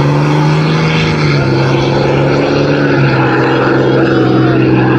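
A pickup truck and an SUV accelerating hard side by side from a standing start in a street drag race, their engines loud and droning. The engine note steps down in pitch twice, about a second and a half in and again about three seconds in.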